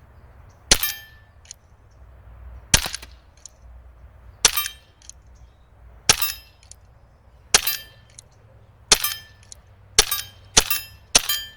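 Crosman Triple Threat CO2 revolver firing slugs at steel: nine sharp cracks, each carrying a metallic ring from the steel target. The shots come every second and a half or so at first, then faster, about two a second, near the end.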